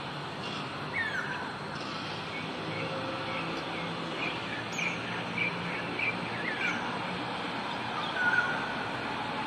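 Wild birds calling: a downward-slurred call about a second in, then a string of short, repeated chirps, a few a second, and a brief whistle near the end. Under them runs a low, steady hum.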